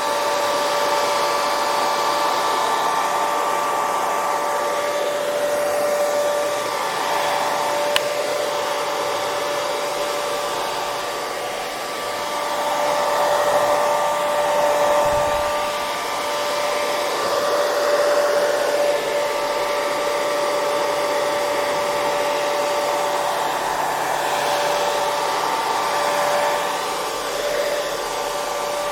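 Hair dryer running continuously: an even rush of blown air with a steady motor whine that swells and eases slightly in loudness.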